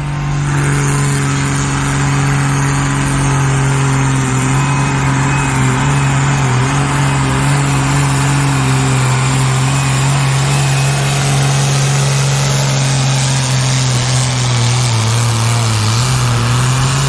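Pulling tractor's diesel engine at full throttle under load as it drags the sled down the track, a loud steady note that dips slightly near the end.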